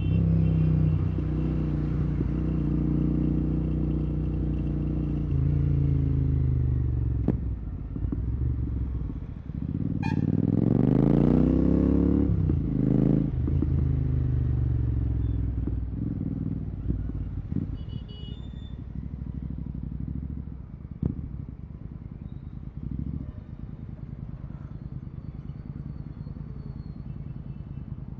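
Royal Enfield Continental GT 650's 648 cc parallel-twin running through a Red Rooster exhaust with no dB killer. It holds a steady engine note at first, revs climb and fall away about ten to thirteen seconds in, and then it settles to a lower, quieter note.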